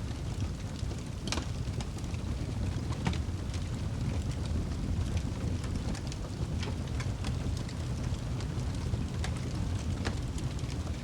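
Wood fire burning in a fireplace: a steady low rumble of flames with scattered, irregular crackles and pops, a few of them sharper.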